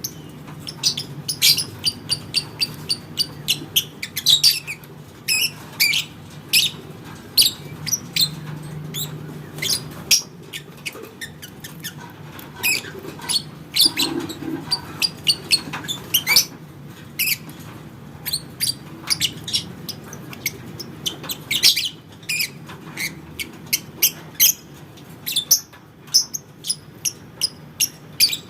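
Lovebird calling: a stream of short, sharp, high-pitched chirps and squawks, often in quick runs of several calls, with a faint steady hum underneath.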